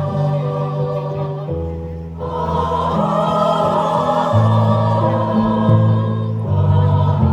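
A choir singing over held low accompaniment chords that change every second or so; the voices swell about two seconds in.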